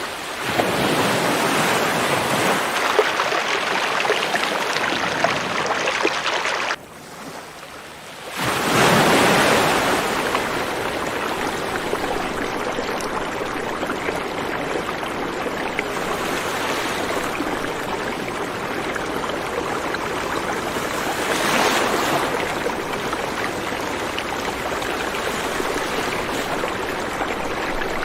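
River water flowing steadily in a continuous rushing wash. About seven seconds in, the sound drops away to a much quieter level for about a second and a half, then comes back in full.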